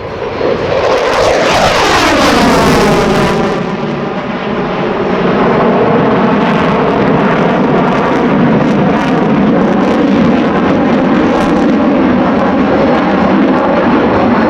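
USAF F-15C Eagle's twin turbofan jet engines in a high-speed low pass. The jet noise builds about a second in and is loudest and hissiest two to three seconds in as the aircraft goes by. Then the pitch sweeps downward and settles into a loud, steady rumble as it moves away.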